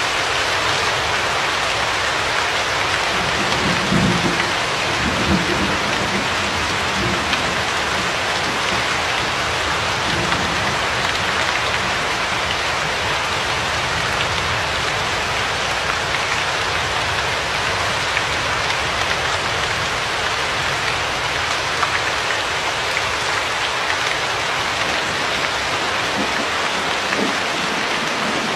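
Steady heavy rain, an even dense hiss of drops. A brief low rumble of thunder comes a few seconds in.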